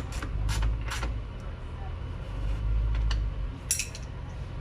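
A ratchet wrench clicking in quick, even strokes, about four a second, as a motorcycle exhaust bolt is tightened. The clicks stop about a second in, with a few more near the end, over a low rumble.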